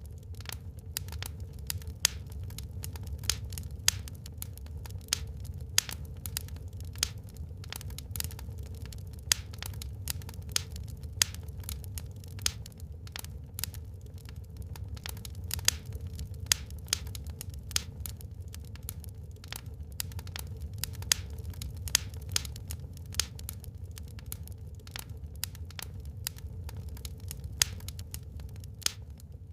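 Burning wood in a fireplace crackling, with irregular sharp pops several times a second and a few louder snaps, over a steady low rumble.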